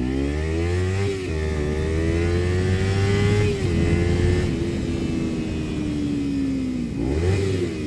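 Kawasaki Ninja 300's parallel-twin engine through an Akrapovič slip-on exhaust, accelerating hard. The engine note drops at upshifts about a second in and again at about three and a half seconds, then slowly falls away as the bike eases off, with a short rev near the end.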